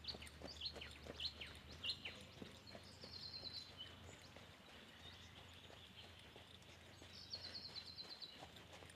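Birds calling: a run of quick falling whistles in the first two seconds, then a fast high trill twice, about three and seven seconds in. Under them, the faint hoofbeats of a Pure Spanish stallion trotting on sand.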